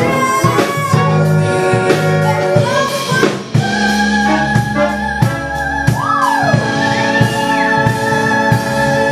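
A woman singing a musical-theatre song with band accompaniment and drums, holding one long note through the second half.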